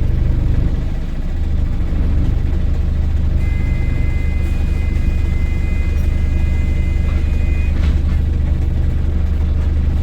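Volvo B5LH hybrid double-decker bus heard from inside, its four-cylinder diesel engine running steadily with a deep rumble. A steady high-pitched whine joins in for about four seconds midway.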